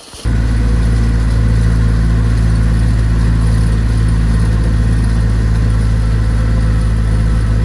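Tractor engine running steadily at a constant speed, starting abruptly about a quarter second in.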